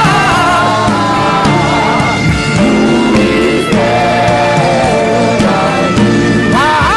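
Gospel worship music: a sung voice holding long, wavering notes over a steady band accompaniment.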